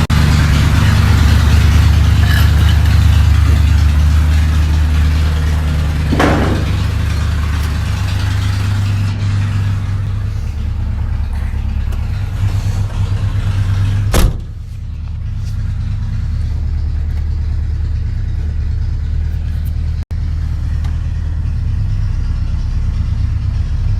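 1981 Chevy K10 pickup's engine running steadily as the truck is driven, a low drone with road noise over it. A sharp thump comes about fourteen seconds in, after which the higher noise falls away and the engine drone carries on.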